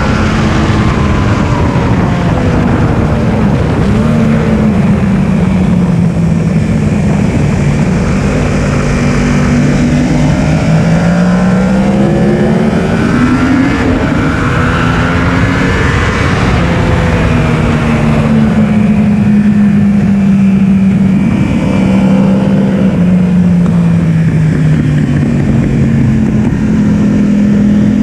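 Yamaha R1's inline-four engine at full song on track, its pitch climbing under acceleration and dropping on braking and downshifts several times.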